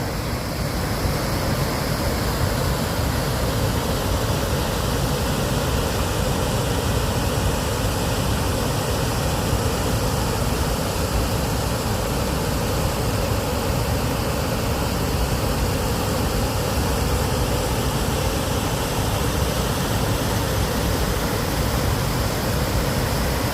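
Santiam River water rushing steadily over rapids, an even roar of moving water.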